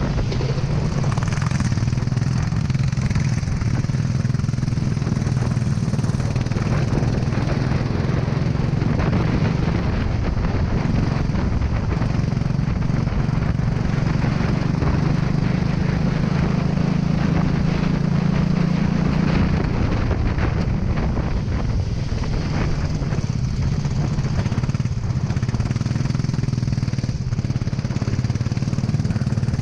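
Go-kart engine running hard, its pitch rising and dropping as the throttle opens and closes, over a steady hiss of wind noise.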